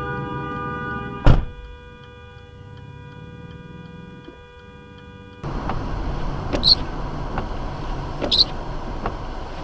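Car collision: a single loud bang about a second in, over a steady held tone that fades out afterwards. About five seconds in, the sound cuts to steady road noise with a few short sharp clicks.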